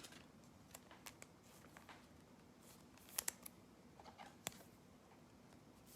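Near silence, with a few faint clicks and light rustles from trading cards being handled.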